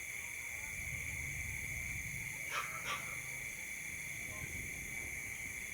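Night insect chorus, crickets and cicadas, keeping up a steady high-pitched buzz. Two short animal calls come close together about halfway through, over a low rumble.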